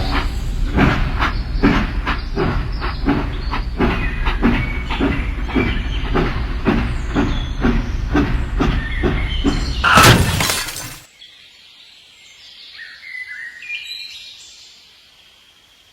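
Loud rhythmic clattering over a steady low rumble, about two or three knocks a second, that cuts off suddenly about eleven seconds in. Faint bird chirps follow.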